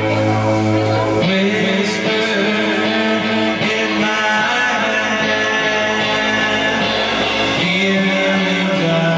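Band playing live: guitar chords held and ringing, with a voice singing. The chord changes about a second in and again near the end.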